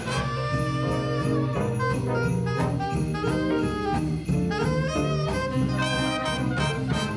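A high-school jazz ensemble playing, saxophones and brass together.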